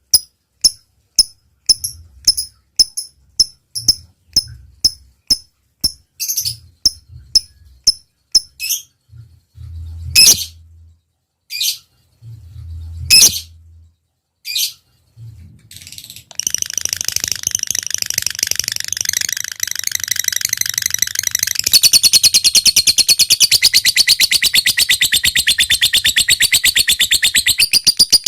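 Lovebird singing. It starts with a run of short, sharp, evenly spaced chirps about two a second, the 'ngetik' ticking, with a few low thumps beneath. After a few longer calls, from about sixteen seconds in it breaks into a long, fast, unbroken chattering trill, the 'ngekek panjang' long chatter of a lovebird in full song.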